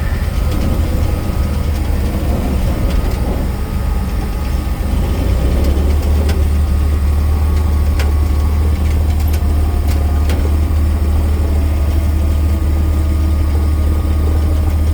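Cessna L-19 Bird Dog's six-cylinder Continental O-470 engine and propeller running as a heavy, steady low rumble that grows louder about five seconds in, with a few faint sharp clicks.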